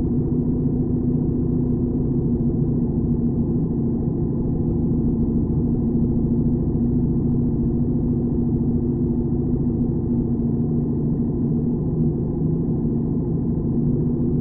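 1941 BMW R75's flat-twin engine running at a steady speed, a constant drone with no change in pitch.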